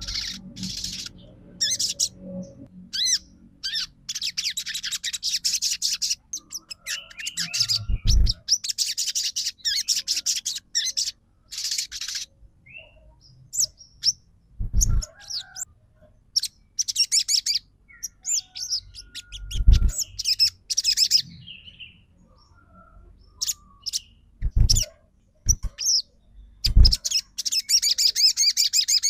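Olive-backed sunbird (sogon) singing in bouts of fast, high chattering trills and twitters with short pauses between them. This is a lure song meant to provoke other sunbirds to answer. A few dull low thumps sound between the bouts.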